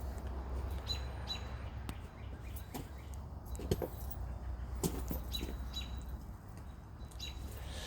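Small birds chirping now and then in short high calls, over a low steady wind rumble on the microphone and a few light clicks.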